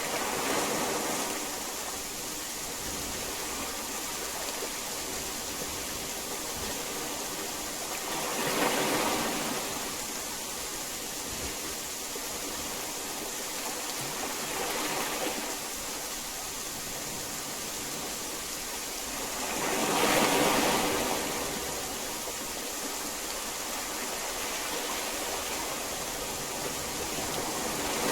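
Heavy rain falling as a steady hiss, swelling louder in waves several times, most strongly about nine and twenty seconds in.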